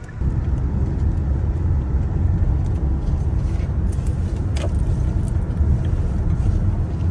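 Car road and engine noise heard from inside the cabin: a steady low rumble that gets louder just after the start and holds.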